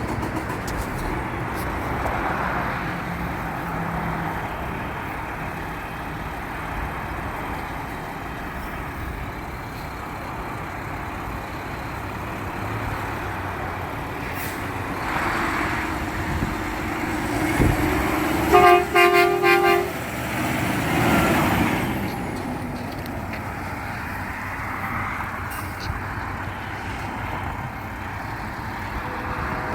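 Garbage truck honking its horn in about four short, quick toots partway through, over steady truck engine and road noise.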